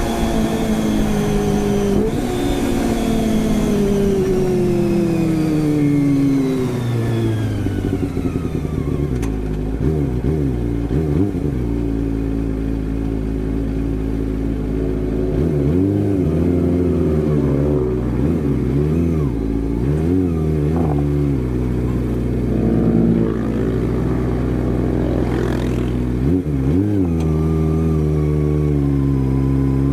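Kawasaki ZX-25R inline-four engine through an Akrapovic exhaust. Its revs fall slowly over the first several seconds, then it settles low with a series of short throttle blips, each a quick rise and fall in pitch.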